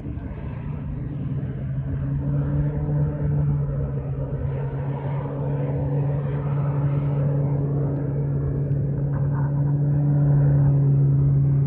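An engine runs with a steady low hum that grows gradually louder, as if it is approaching.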